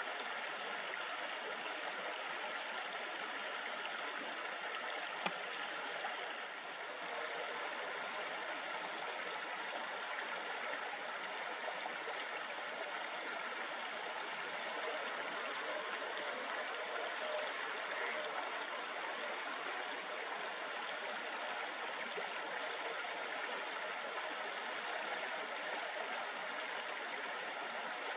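River water babbling steadily, with a few brief high chirps of small birds: one about a quarter of the way in and two near the end.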